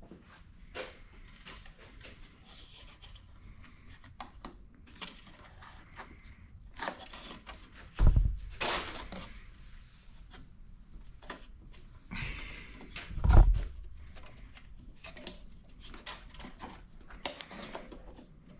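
Handling noise as the pancake air compressor is unplugged and worked on: scattered clicks and rattles, with two heavy thumps about eight and thirteen seconds in.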